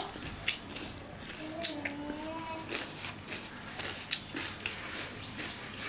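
A person chewing crisp raw cucumber salad: irregular crunchy clicks as it is bitten and chewed.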